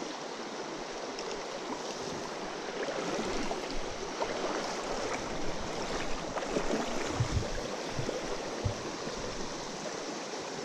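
Mountain stream water flowing and splashing steadily, with a few short, low knocks in the second half.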